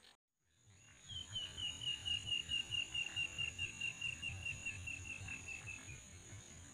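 Marsh wildlife at dawn: a bird gives a long run of rapid whistled notes, about five or six a second, slowly falling in pitch, over a steady high insect drone. The sound drops out briefly at the very start.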